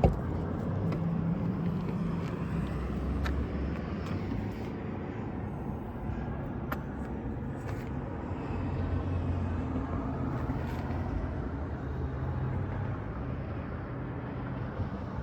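Low motor-vehicle rumble, rising and falling slightly, with a few light clicks.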